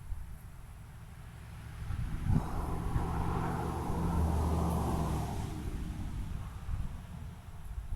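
A motor vehicle passing by, its engine and tyre noise swelling from about two seconds in and fading away again by about six seconds.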